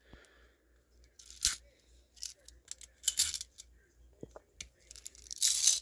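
6 mm airsoft BBs rattling and clicking inside a Game Face GFM311's plastic magazine as it is tilted to feed them from the reservoir into the magazine, in about five short bursts.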